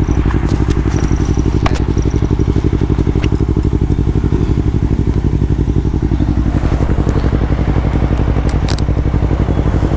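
Motorcycle engine idling steadily close by, a fast even low putter.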